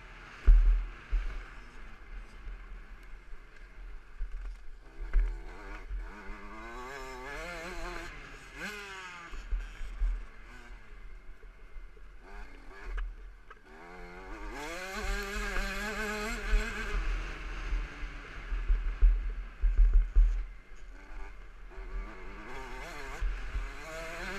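KTM 65 SX's small two-stroke single-cylinder engine revving hard and easing off repeatedly, its pitch climbing under acceleration and falling away between, with one longer climb and hold about two thirds of the way through. Heavy wind buffeting and jolts thump on the microphone throughout.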